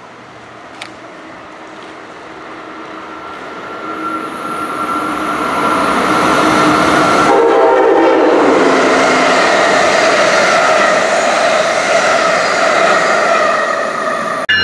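Amtrak Northeast Regional passenger train approaching and passing through a station at speed. The sound grows louder for several seconds, changes abruptly about halfway through as the locomotive goes by, then stays loud as the wheels of the coaches rush past on the rails.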